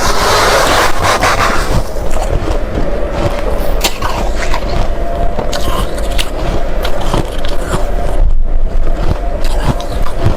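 Close-miked crunching and chewing of freezer frost, a steady run of dense crackles and crisp snaps.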